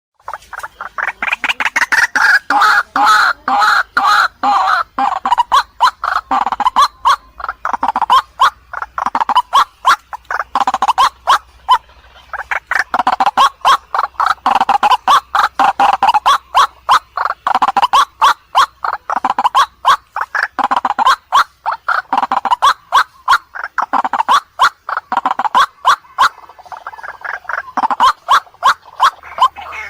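White-breasted waterhen (ruak-ruak) calling without a break: a fast, loud run of short, harsh repeated notes, several a second.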